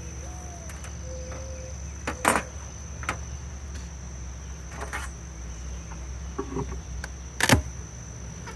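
Steady high insect trill, like crickets, over a low steady hum. A few sharp clicks and knocks come through it, the loudest about seven and a half seconds in.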